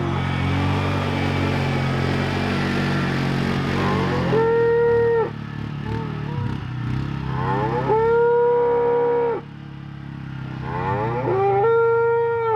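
Cattle mooing three times, long drawn calls about three and a half seconds apart, over an engine running low and steady that fades after the first call.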